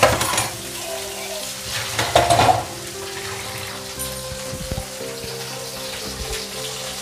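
Batter-coated mushroom pieces frying in hot oil in a kadai, sizzling and crackling, with louder spatters right at the start and about two seconds in. The crackling is the water still in the mushrooms cooking out; they are not yet done.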